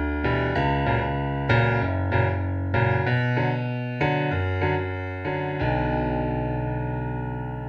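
Piano playing the closing phrases of a song as instrumental music, a series of struck notes and chords. About five and a half seconds in it lands on a final held chord that slowly dies away.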